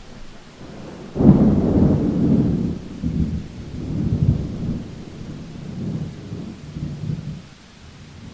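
A clap of thunder breaks about a second in and rolls on as a deep rumble in several swells. It dies away after about six seconds, over steady rain.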